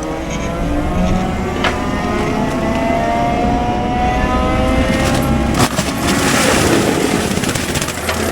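CAT 310 excavator's diesel engine and hydraulics running under load, the pitch rising and falling as it works, with a few sharp cracks and a rougher, noisier stretch near the end.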